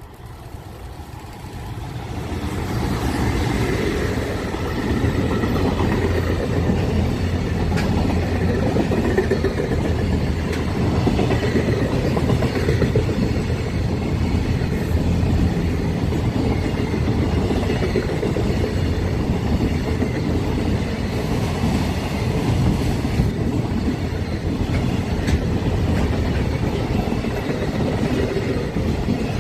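JR Freight EF210 electric locomotive hauling a freight train through a station without stopping. The rumble of wheels on rails builds over the first few seconds as the locomotive arrives, then holds loud and steady as the long line of wagons goes by.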